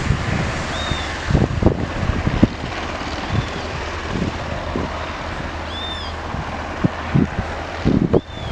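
Steady aircraft engine noise with a low hum, and irregular wind buffeting on the microphone.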